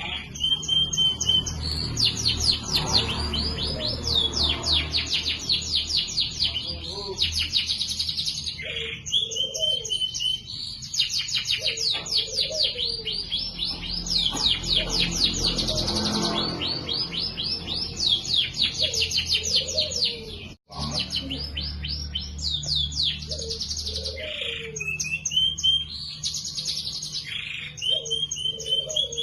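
Domestic canary singing continuously in long, fast trills and rolls, broken by short, clear whistled notes, the full song of a bird in top form (gacor).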